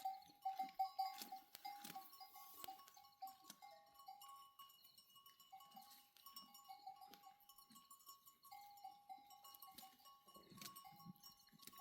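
Faint sounds of a grazing flock of sheep and goats, with irregular clinking and ringing of bells on the animals.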